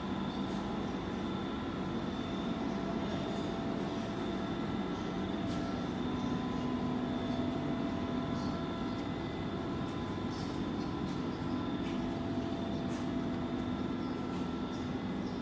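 A machine running steadily, with several steady tones over a low hum and a few faint clicks.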